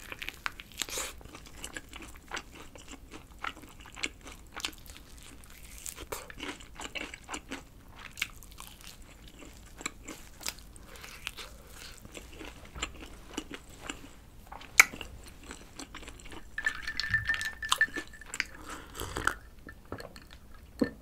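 Close-up biting and chewing of crispy fried chicken, the crunches coming as irregular sharp crackles, the loudest about three-quarters of the way through. A few seconds before the end, a short high steady tone sounds among the chewing.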